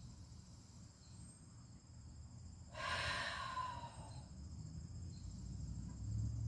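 A woman's slow, audible exhale during yoga belly breathing, one long sigh-like breath out about three seconds in, lasting about a second. Insects chirp steadily in the background over a low rumble.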